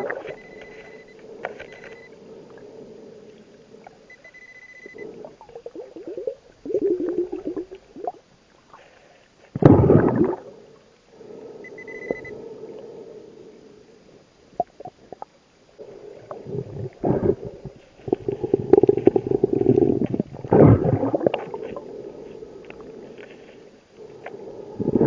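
Scuba diver breathing underwater through a regulator: loud bursts of exhaled bubbles at irregular intervals, with gurgling between them. A few short high beeps sound in the first few seconds and again about halfway through.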